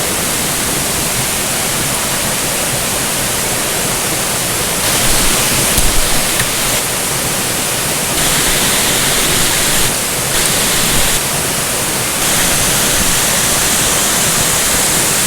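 Waterfall: a steady, loud rush of falling water, swelling a little now and then.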